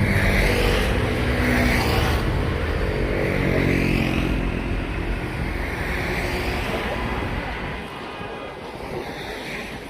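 Street traffic: a motor vehicle's engine running close by with a low drone, fading away over the last few seconds.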